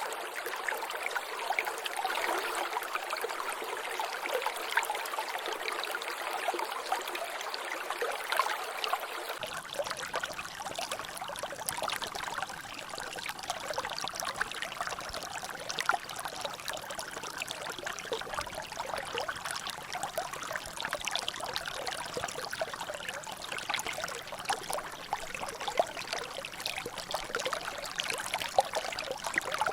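Water trickling and splashing in a natural drainage, a steady rush full of small drips and splashes. About nine seconds in, the sound changes abruptly and becomes fuller and deeper.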